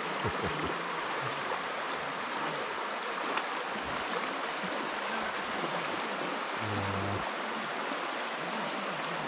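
River water rushing steadily, a continuous even hiss of flowing water.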